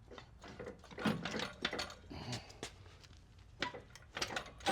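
Irregular knocks, clunks and scraping as a 1967 Volkswagen rear transaxle and axle assembly is shoved and slid off the chassis on a small floor jack. The knocks bunch up about a second in and again near the end.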